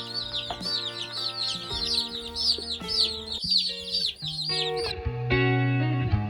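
Baby chicks peeping, a rapid string of high rising-and-falling cheeps, over guitar music. The peeping cuts off suddenly about five seconds in, leaving the music.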